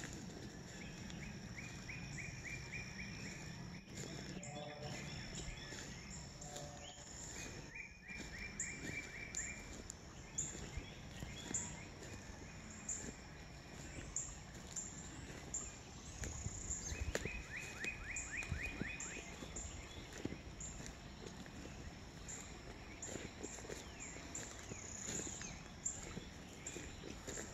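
Outdoor birdsong: one bird sings a short, fast trill of rapid notes three times, several seconds apart, over steady high chirping. Faint footsteps on a wood-chip path come in later on.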